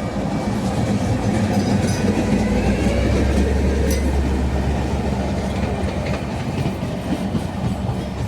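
A train passing at close range, its wheels clicking over the rail joints, over a steady low drone that is loudest about halfway through.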